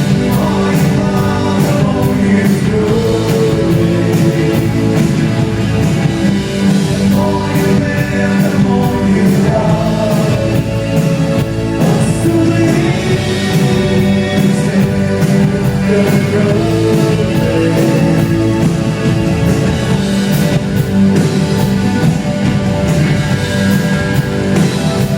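A live new-wave rock band playing: a lead voice singing a melody over electric guitar, bass and drums, with a steady beat throughout.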